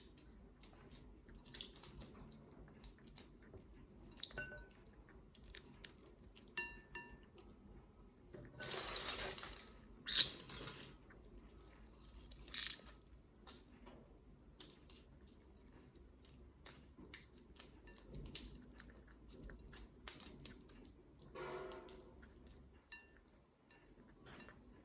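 Green-cheeked conure working at a walnut with its beak: scattered small clicks, taps and crunches of beak on shell, with louder bursts about nine seconds in and again near the end.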